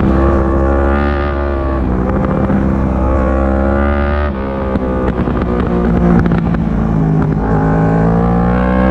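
Yamaha R1 race bike's inline-four engine, heard onboard, accelerating hard at full throttle out of a corner. The pitch climbs and drops several times as it changes gear.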